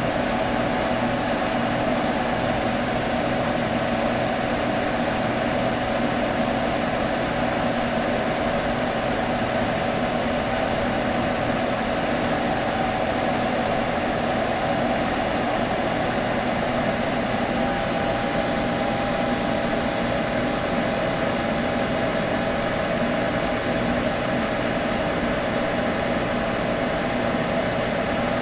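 Computer running with a steady hum of its cooling fans, a constant tone over an even airy whoosh.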